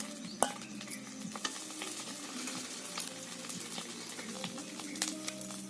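Food sizzling as it fries in oil in a pan while it is stirred, with scattered clicks and scrapes of the utensil against the pan.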